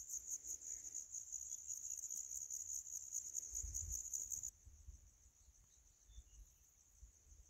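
Crickets trilling in a dense, steady high-pitched chorus of rapid pulses. The chorus drops abruptly to a fainter level about four and a half seconds in.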